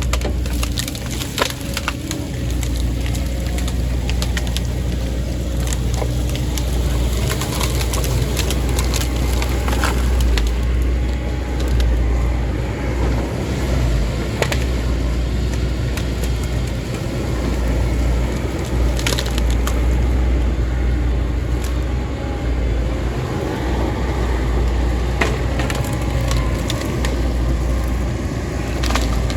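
A heavy diesel machine runs steadily while wood cracks and splinters again and again with sharp snaps, as timber is broken or crushed by the machinery.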